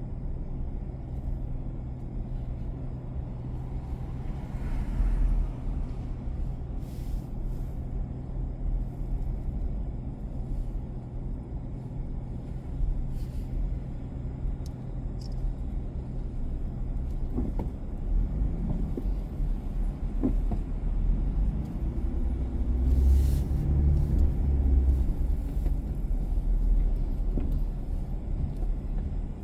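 Car driving on city streets: a steady low rumble of engine and tyre noise with a constant low hum, swelling louder in the last third.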